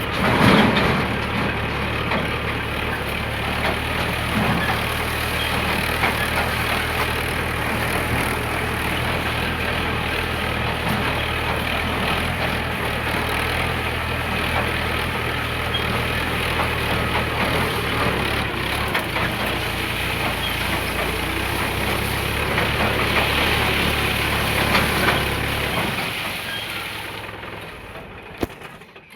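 Tractor's diesel engine running steadily under load, with a louder knock about half a second in; the engine sound drops away and fades out near the end.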